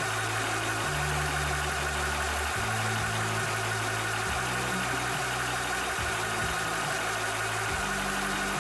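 Cobra 300-bar (4500 psi) PCP air-rifle compressor running steadily while pumping to high pressure.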